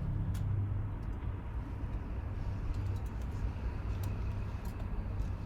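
Kawasaki Ninja 300's parallel-twin engine idling steadily through a Toce full-system aftermarket exhaust, with a low, even note.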